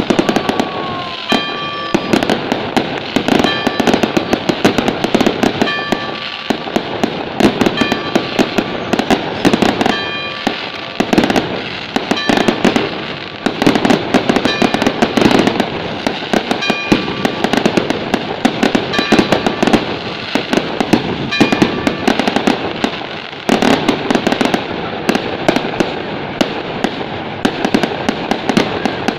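Fireworks display: a dense, continuous barrage of bangs and crackling, with short high ringing tones that come back every second or two.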